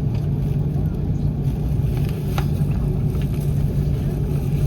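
Cabin noise aboard an Airbus A330-300: a steady low engine and airframe drone with a brief faint click about two and a half seconds in.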